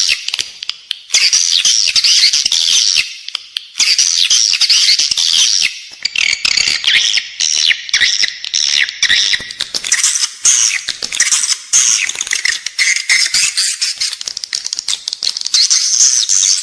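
Edible-nest swiftlet calls, the inside-building lure sound played in swiftlet houses to draw nesting birds: dense, rapid, high-pitched twittering and clicking chatter in bursts, with short breaks about half a second in, about three seconds in and about six seconds in.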